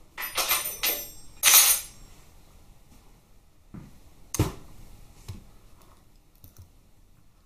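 Metal spanners clinking and rattling as they are handled, loudest in the first two seconds, then one sharp metal clack about four and a half seconds in and a few light clicks.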